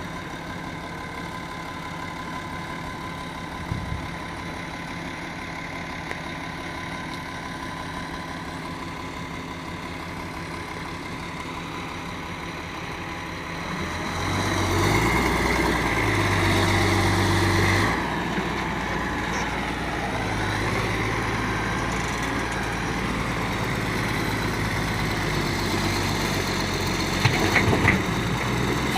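Engine of an excavator loading dirt into a dump truck, running steadily at first and then revving up about halfway through, its pitch stepping up and down as it works under load. A few sharp knocks near the end.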